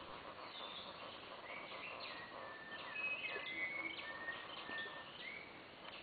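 Rainforest birds calling: several clear whistled notes, some gliding up or down, from about a second and a half in until about five seconds in. Beneath them runs a steady hiss of jungle background sound.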